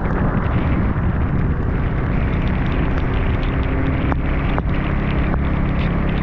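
Scooter engine running steadily while riding, under a heavy rumble of wind buffeting the microphone, with a few sharp ticks.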